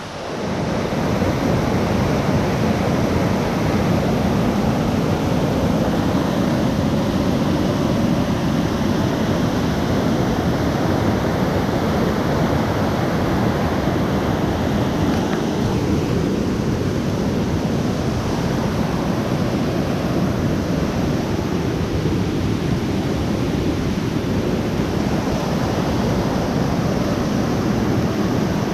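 Rain falling steadily: a constant, even rushing noise that fades in over the first second.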